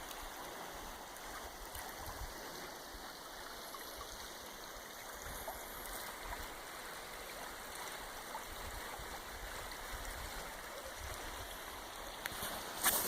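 Floodwater of a swollen creek rushing steadily. Near the end, a few sharp knocks.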